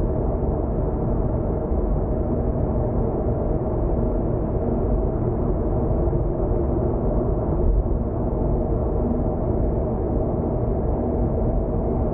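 Steady road and engine noise of a car cruising on an expressway, heard from inside the cabin: a constant rumble of tyres on the road with a low engine hum.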